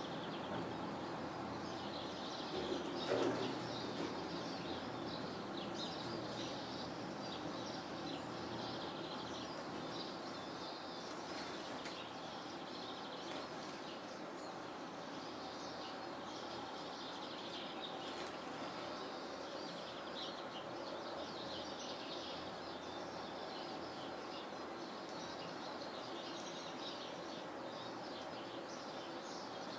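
Small songbirds chirping and twittering throughout over a steady background hiss, with a brief louder noise about three seconds in.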